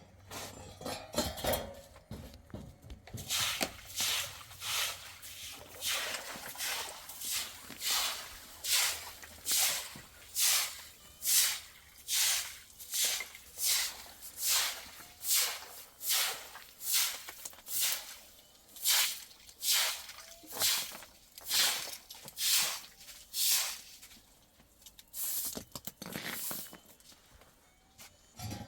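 Slow, even footsteps crunching through snow, a little over one step a second, stopping a few seconds before the end.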